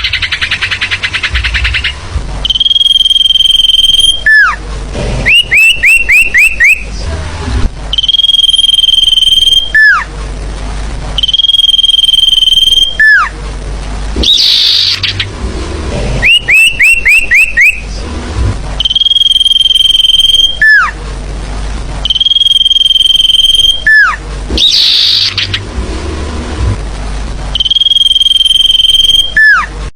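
Recorded forest bird calls played as a trapping lure, repeating in a loop: a long steady high whistle, a sharp falling note, and quick runs of five or six short notes, cycling about every 4 seconds.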